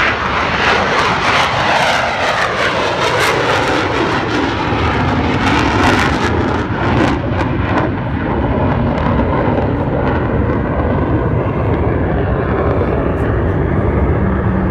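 Aircraft engine noise as a plane flies past, its pitch sliding down over the first few seconds, then a steady drone.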